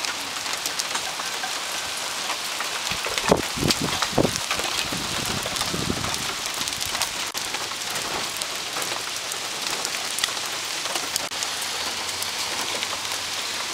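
Hail and rain falling on surfaces: a steady hiss dotted with many sharp clicks of hailstones striking, with a louder knock about three seconds in.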